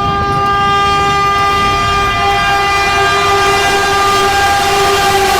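Train horn sounding one long steady blast over a low rumble.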